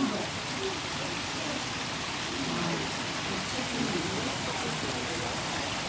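A steady, even hiss like rain falling, with faint low voices murmuring a couple of times in the background.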